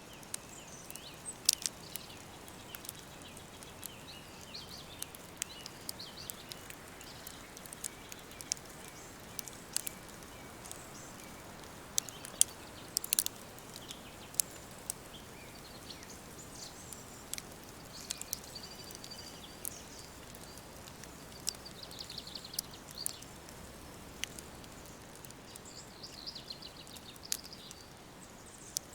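Woodland ambience: a steady soft hiss of breeze with faint birds chirping now and then, broken by scattered sharp crackles and pops throughout.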